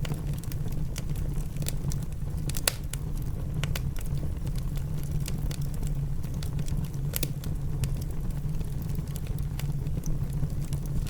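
Wood fire crackling in a fireplace, with irregular sharp pops every second or so over a steady low rumble, mixed with rain.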